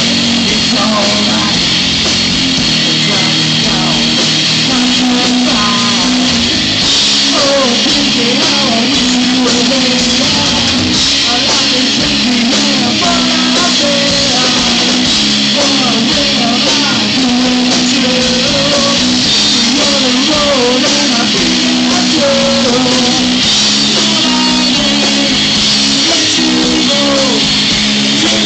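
Live rock band playing loud and steady: electric guitar, bass and drums, with a wavering lead melody over them.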